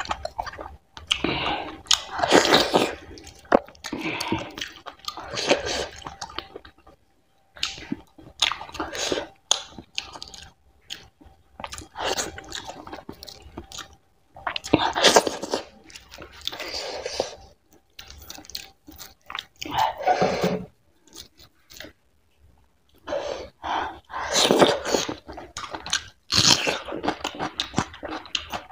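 Close-miked wet chewing of fatty mutton curry and finger-millet dhido eaten by hand, in irregular bouts broken by short pauses.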